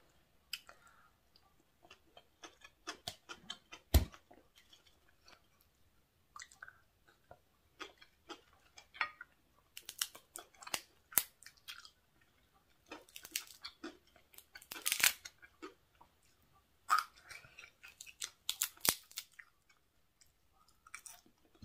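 A person eating crispy fried squid and papaya salad close to the microphone: irregular chewing, crunching and mouth clicks, denser in the middle and later. A single sharp knock about four seconds in.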